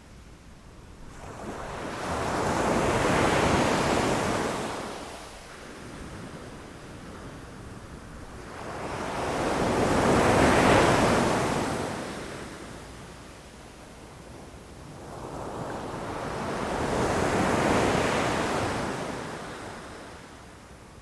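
Ocean waves breaking against rocks: three slow swells of surf, each building and washing back over several seconds, with a lower hiss of water between them.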